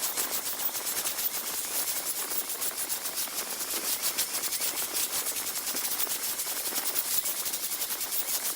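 Wood spinning on a lathe with a tool or abrasive held against it: a steady high hiss with a fast, even rattle.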